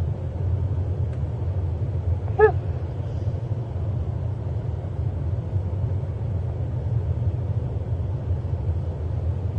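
A steady low rumble, with one short pitched sound about two and a half seconds in.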